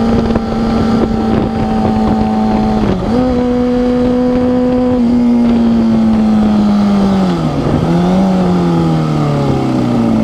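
Kawasaki Ninja 250R parallel-twin sport bike engine with a slip-on exhaust, running at a steady speed, with wind rushing on the helmet camera. Its pitch dips briefly about three seconds in, then falls over the last five seconds as the bike slows down.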